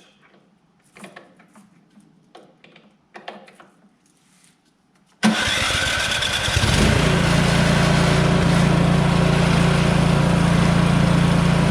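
A few faint knocks, then about five seconds in the Poulan Pro PR271 snow thrower's single-cylinder four-stroke engine starts suddenly and settles within two seconds into a steady, loud run.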